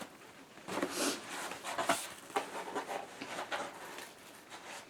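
Irregular rustling and scraping as packaging is handled and opened by hand.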